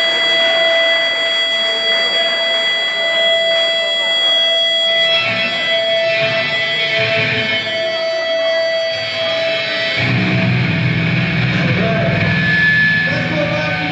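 Live electric guitar through a loud stage amplifier, with steady ringing tones held over it; about ten seconds in, heavier low notes come in.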